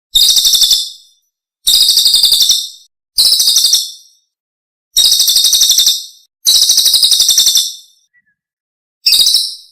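Masteran recording of a songbird: a rapid, high-pitched rattling trill given in short bursts of about a second each, six times, with silence between.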